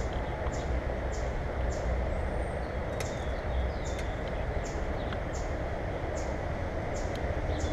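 A small bird calling with short, high, down-slurred chirps, about two a second, over a steady low rushing noise.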